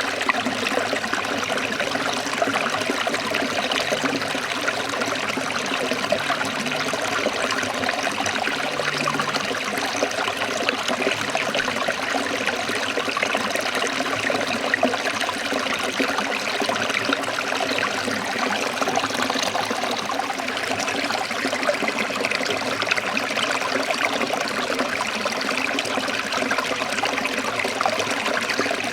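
Forest stream trickling and splashing over rocks, a steady continuous rush of running water.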